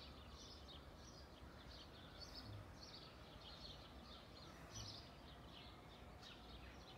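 Faint garden birdsong: many short, high chirps repeating through the quiet.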